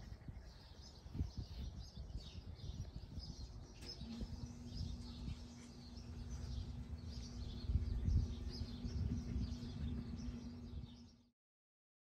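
Small birds chirping, many short high-pitched chirps in quick succession, over a low rumble. A steady low hum joins about four seconds in, and all sound cuts off abruptly near the end.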